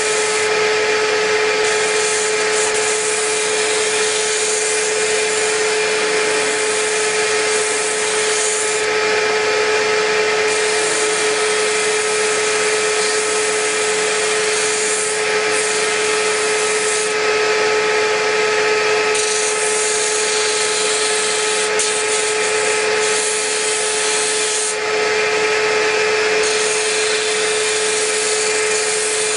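Disc sander running steadily with a strong hum, the wood drawer pressed against the abrasive disc on and off so that a high sanding hiss comes and goes every few seconds. The drawer's proud finger joints are being sanded flush.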